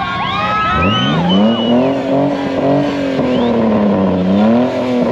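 An off-road race vehicle's engine revving hard, its pitch climbing about a second in and then rising and falling as the throttle works, typical of a vehicle being driven to climb or free itself. Several high whistling glides fade out in the first second.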